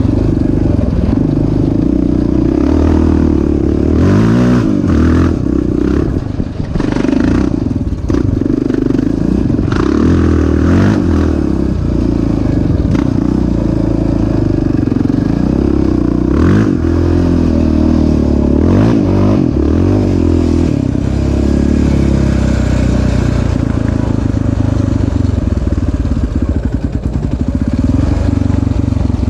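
Single-cylinder off-road engine running hard over a dirt track, revving up and down again and again, with clatter and knocks from the ride.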